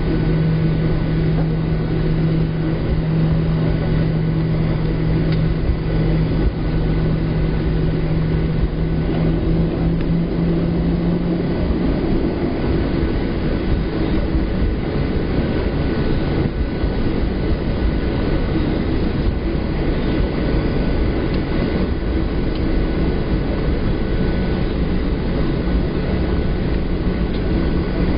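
Cabin noise of a Boeing 737-700 on the ground with its CFM56 jet engines at idle: a steady rumble and hiss. A low steady hum drops out about twelve seconds in, and a slightly higher hum comes in near the end.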